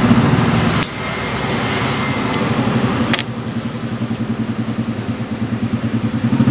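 A motorcycle engine idling close by, a steady low throb that turns more pulsing from about three seconds in. Two sharp clicks cut across it, about a second in and about three seconds in.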